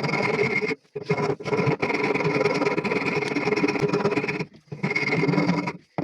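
A motor-driven power tool running steadily at a constant pitch, cutting out abruptly several times.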